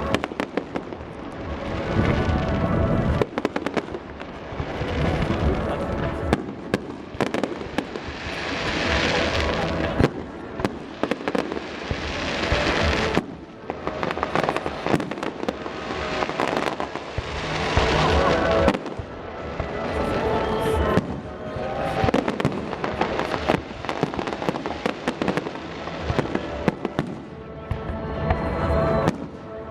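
Aerial fireworks display: many sharp bangs of bursting shells and swells of crackling, with music playing underneath.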